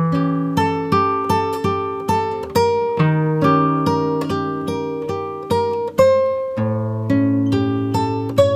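Background music: acoustic guitar plucking notes in a steady rhythm.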